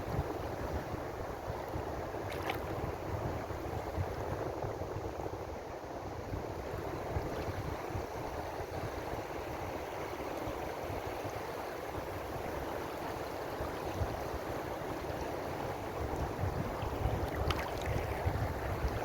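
Ocean waves washing in on a shore: a steady wash of surf with a low rumble beneath it, and a brief hiss of spray about two seconds in and again near the end.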